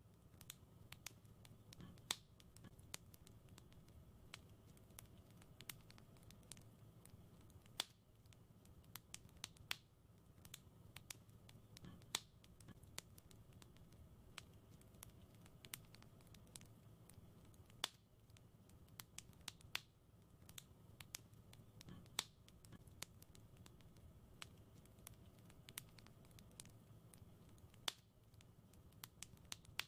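Fireplace wood fire crackling faintly: irregular sharp pops and snaps, a louder one every few seconds, over a steady low rumble.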